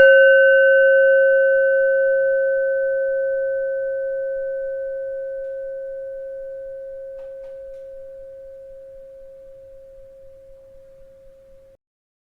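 A bell struck once, ringing on one steady mid pitch with a few fainter overtones and fading slowly for about twelve seconds, then cut off abruptly near the end.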